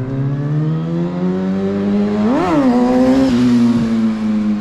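Motorcycle engine accelerating, its pitch climbing steadily, then a quick sharp rev up and back down about two and a half seconds in before it holds and slowly falls. This is the rider snapping the throttle to try to lift the front wheel for a wheelie.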